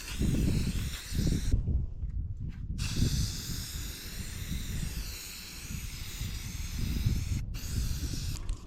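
Aerosol spray-paint can hissing as paint is sprayed, stopping abruptly for about a second near the start and again briefly near the end, over gusty wind rumble on the microphone.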